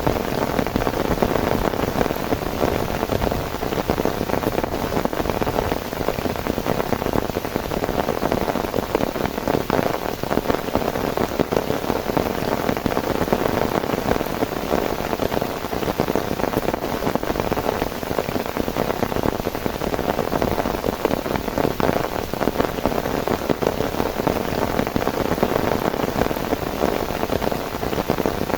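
Heavy rain falling steadily, a dense, even spatter of drops striking a surface with no letup.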